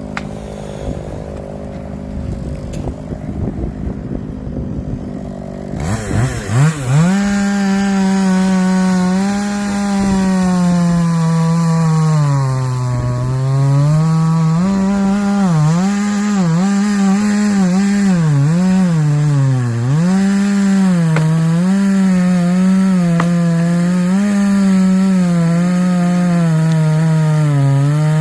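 Chainsaw: irregular knocking and rustling for about six seconds, then the engine revs up and runs at high throttle, its pitch sagging and recovering again and again as it loads up in the wood.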